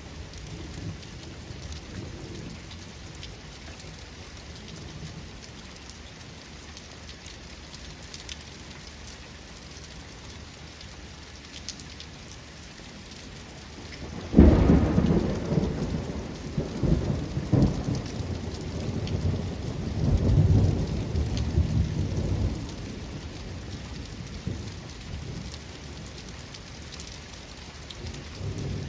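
Steady rain falling, then about halfway through a sudden crack of thunder that rolls on in low rumbling swells for about eight seconds before fading back to the rain.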